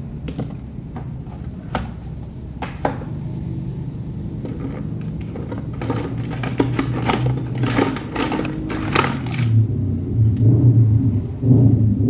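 Close-miked mukbang eating sounds: wet chewing and slurping of juicy fruit, a few single smacks at first, then a dense run in the middle, over a steady low rumble.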